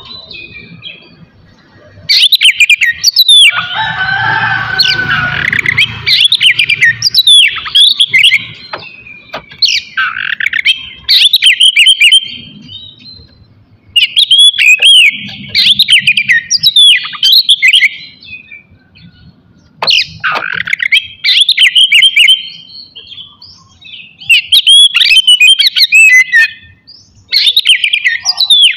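Oriental magpie-robin (kacer) singing loudly: rapid, varied whistled and chattering phrases in bursts of a few seconds, broken by short pauses, with a harsher, denser passage about four seconds in.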